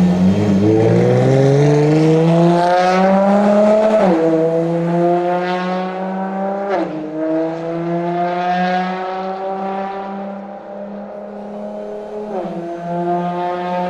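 Ferrari FXX K Evo's V12 engine accelerating hard, its pitch climbing and then dropping sharply at upshifts about four and seven seconds in and again near the end. The sound grows fainter for a while about ten seconds in before rising again.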